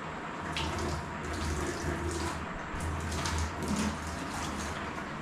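Water pouring or running steadily, with a low hum underneath.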